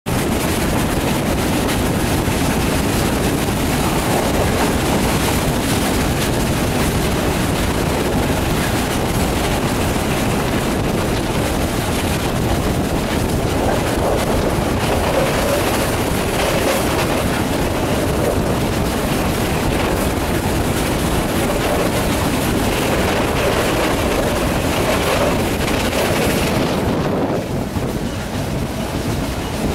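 Passenger train running along the track, heard from inside the carriage: a steady rumble and rush of wheels on rails, easing slightly for a moment near the end.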